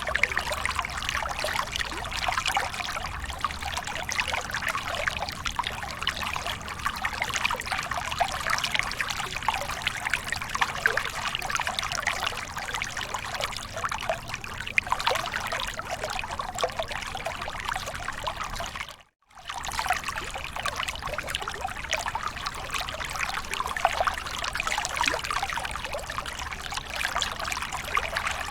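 Falling water splashing and trickling in a steady rush, full of small splashes, as of a small waterfall. It cuts out for a split second about two-thirds of the way through, then carries on.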